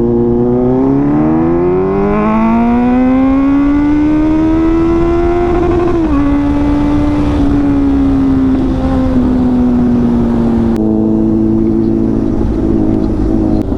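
Inline-four motorcycle engine accelerating: its pitch climbs for about five seconds, drops suddenly at an upshift, then holds and eases off, dropping again near the end.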